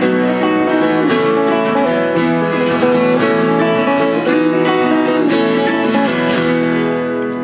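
Acoustic guitar playing the instrumental close of a folk song after the last sung line: picked melody notes over strummed chords.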